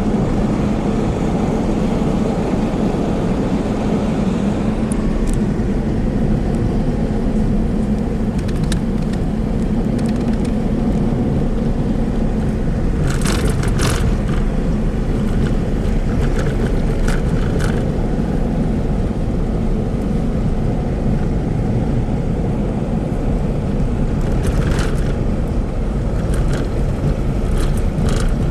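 A car driving, with a steady rumble of engine and road noise. There are a few short rattles or knocks about halfway through and again near the end.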